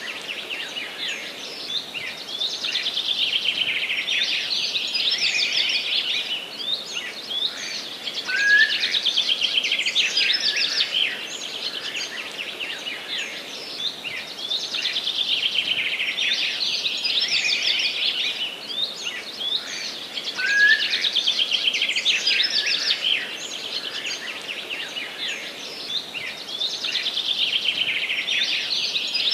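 Forest songbirds singing: dense, rapid chirping trills that swell into a new phrase about every six seconds, with a short rising note twice, over a steady faint hiss.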